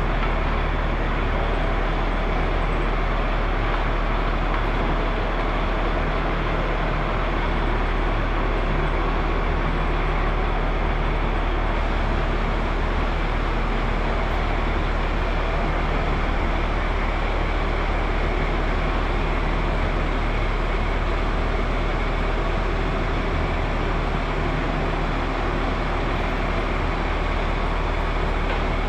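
Steady machinery noise with a deep low hum, unchanging and without distinct knocks or clanks.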